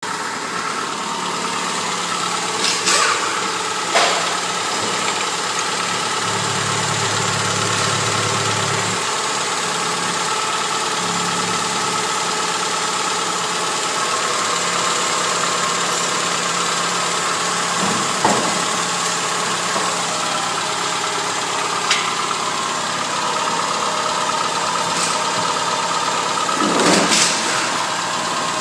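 Rover 600 series' 1.8-litre F18A3 four-cylinder petrol engine idling steadily, with a few short clicks or knocks over it and a brief louder swell near the end.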